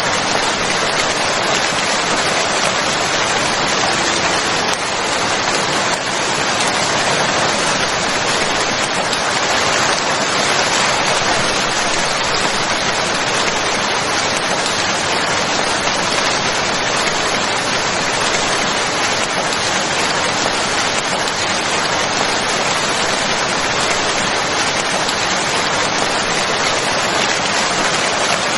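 Steady heavy rain falling: an even, unbroken hiss of dense raindrops with no distinct drips or thunder.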